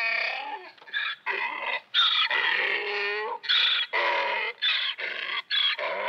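Donkey braying: a run of hee-haw calls, higher-pitched notes alternating with lower ones, with short breaks between them.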